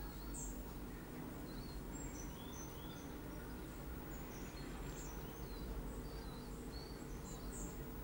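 Small birds chirping in the trees: short, high calls scattered throughout, over a steady low background rumble.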